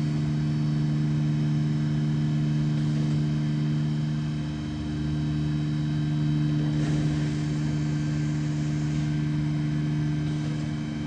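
DMG Mori DVF 5000 five-axis CNC mill running with a steady hum of a few pitched tones, and a brief hiss about seven seconds in.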